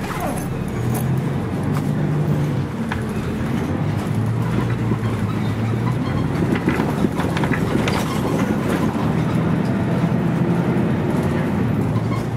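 A Scania CN113CLL city bus's DSC 11 six-cylinder diesel engine running under way, heard from inside the bus. The engine note shifts, settling lower and steady about four seconds in, with occasional clicks and rattles.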